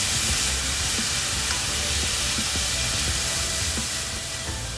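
Julienned burdock root and carrot sizzling steadily in a frying pan while being stir-fried with wooden chopsticks, with small crackles and a low hum underneath.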